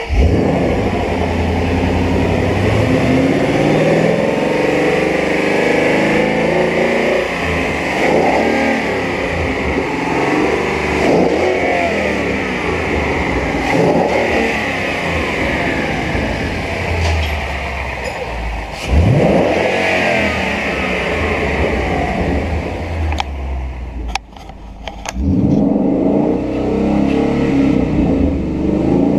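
2013 Ford Mustang 5.0-litre V8 running and being revved repeatedly, the revs climbing and falling several times. Near the end the sound drops away for about a second, with a few clicks, then the engine runs again.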